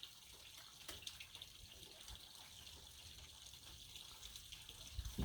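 Faint steady trickle of running water from a small pond waterfall, with a few small ticks and a soft low thump near the end.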